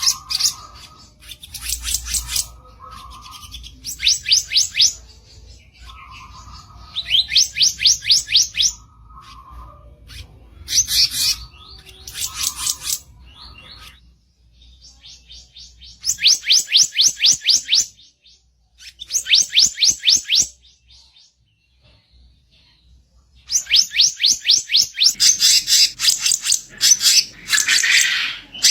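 Bar-winged flycatcher-shrike (kicap ranting) giving harsh, rapid rattling call bursts, each about a second long, repeated with short pauses. Softer lower notes come between some bursts in the first half, and there is a longer pause about three quarters of the way in.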